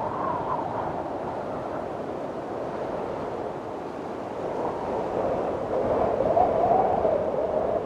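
Windstorm wind blowing steadily, with a wavering, moaning whistle that rises and falls in pitch. The gust swells louder about six seconds in, then eases near the end.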